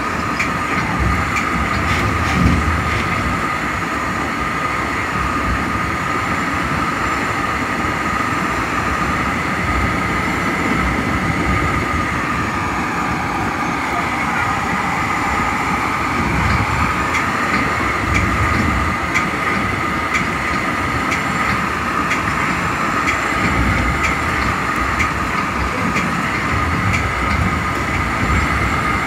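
Metra bi-level commuter train running at speed, heard from inside the leading cab car: a steady rumble of wheels on rail under a steady high hum, with scattered light clicks from the wheels passing over the track.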